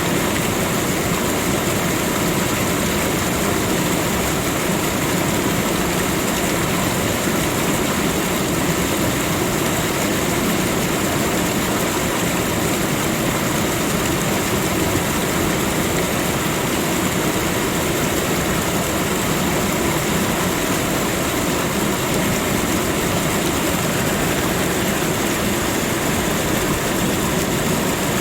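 A waterfall: steady rushing of falling water.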